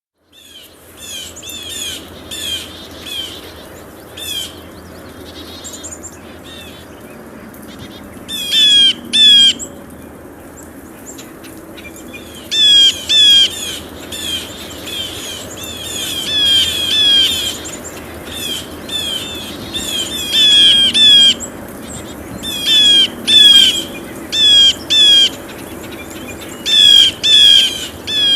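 Blue jays calling: short calls that fall in pitch, often two or three in quick succession, repeated every few seconds. The calls get louder from about eight seconds in.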